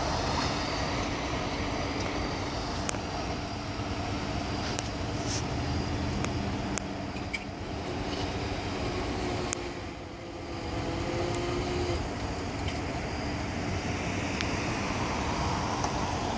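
Steady rumbling noise of a freight train rolling by, with a low hum and a few faint clicks, easing briefly about ten seconds in.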